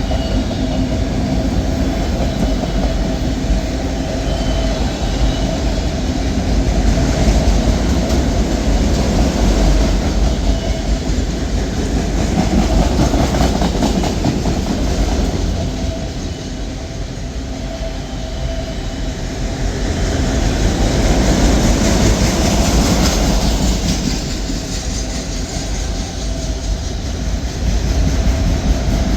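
Slow freight train of empty autorack cars rolling past: a steady heavy rumble of wheels on rail that swells and eases as the cars go by.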